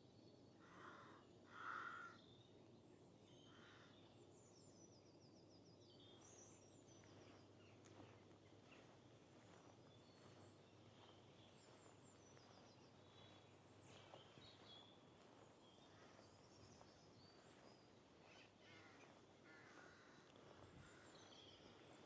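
Faint birdsong, with small birds trilling on and off throughout. Two louder harsh calls come about one and two seconds in, over a steady low background hiss.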